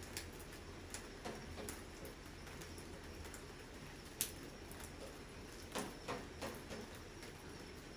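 Rain falling: a faint steady hiss with irregular drops tapping on a hard surface, the sharpest tap about halfway through.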